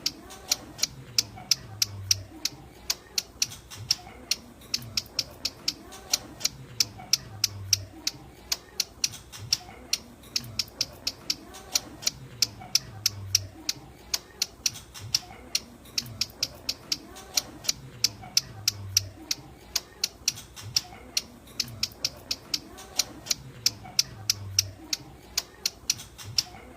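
Ciblek gunung (hill prinia) calling a rapid, unbroken series of sharp, high ticking notes, several a second. This is its typical call, used as a lure for trapping. The same phrase repeats about every five seconds.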